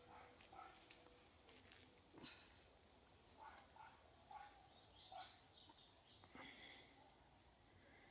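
Near silence outdoors, with faint, high, short chirps repeating roughly twice a second.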